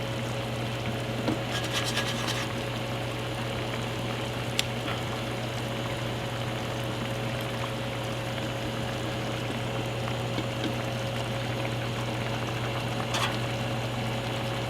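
Pot of kare-kare stew bubbling on the stove over a steady low hum, with a few light clicks.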